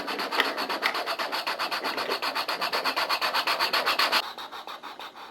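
A toy Thomas engine running on its track, making a fast, even rasping clatter of about eight beats a second. It gets quieter about four seconds in.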